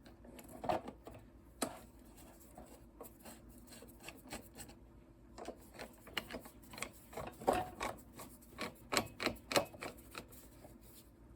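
Irregular clicks, taps and light knocks of parts being handled as the intake manifold tube is fitted back onto a small Tecumseh lawnmower engine, the knocks coming thickest in the second half.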